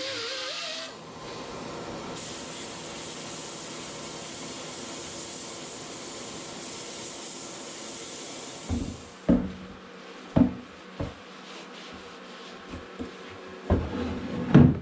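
A steady hiss for several seconds, then about six sharp knocks spread over the last few seconds.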